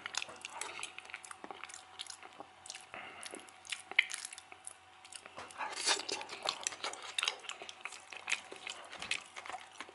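A person chewing mashed potatoes and liver in sour cream sauce close to the microphone: a dense run of small mouth clicks, with one sharper click about four seconds in and a busier patch about six seconds in.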